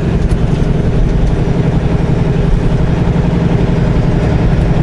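Semi truck's diesel engine running steadily at low speed, a constant low rumble heard from the cab as the truck creeps along.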